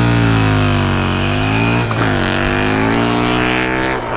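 Motorcycle engine, a Husqvarna Nuda 900 parallel twin, revving hard under acceleration. Its pitch climbs and drops off sharply at gear changes, about two seconds in and again near the end.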